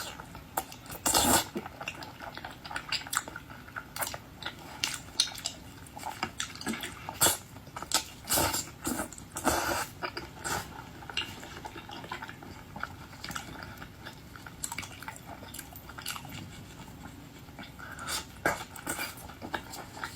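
Close-miked eating: irregular wet crunches, clicks and smacks of someone chewing and biting seafood, loudest about a second in and again around the middle.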